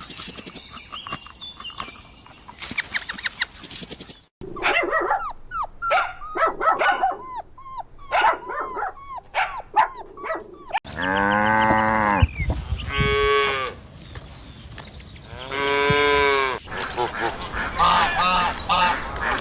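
A run of farm animal calls: short repeated calls for several seconds, then a cow mooing in two long calls and a shorter one, followed by quicker rapid calls near the end.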